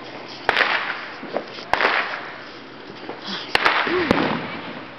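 Neighbourhood fireworks and firecrackers going off: about six sharp pops in three clusters, each trailing off in a short hiss.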